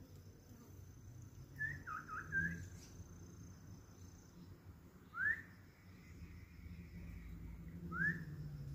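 Songbird giving short whistled calls: a quick cluster of notes about two seconds in, then two single rising whistles about three seconds apart.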